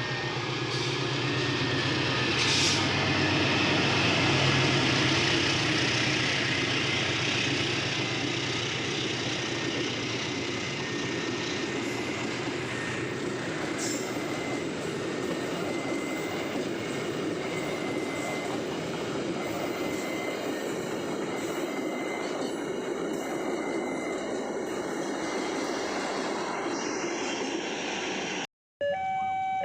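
Train passing on the rails: a steady rush and rumble of wheels that runs without a break. Near the end the sound cuts to electronic warning tones stepping between pitches, like a level-crossing alarm.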